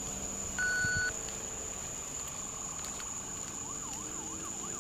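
A short electronic beep about a second in, then from about three and a half seconds a faint police siren in a fast yelp, rising and falling about three times a second.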